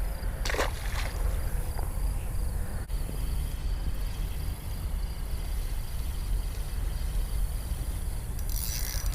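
Creekside ambience: a steady low rumble under insects chirping, the insect sound growing louder near the end.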